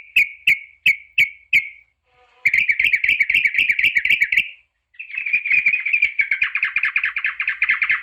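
Yellow-vented bulbul (trucukan) calling: first a string of separate short chirps, about three a second, then two long, fast bubbling chatters with a brief pause between them, a lower voice joining the second chatter partway through.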